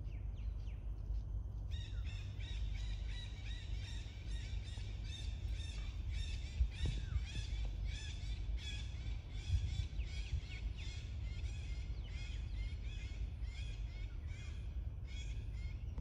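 A bird calling over and over, a short chirping note about twice a second, faint at first and then steady, over a low constant rumble.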